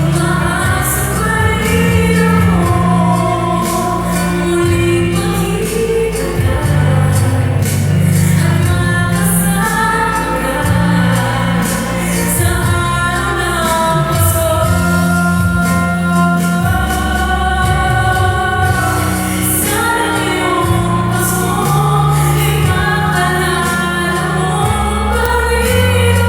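Female vocalist singing a slow song with long held, sliding notes over instrumental backing music with a steady bass.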